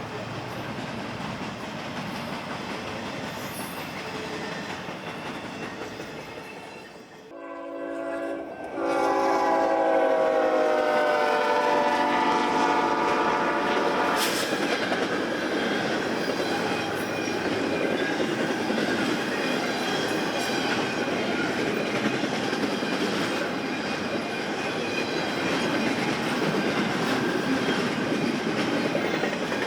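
BNSF freight train rolling past with a steady rumble of wheels on rail. About seven seconds in, a locomotive's air horn sounds and holds for about seven seconds, its pitch falling slightly as it passes. The cars then roll by with loud, steady wheel and rail noise.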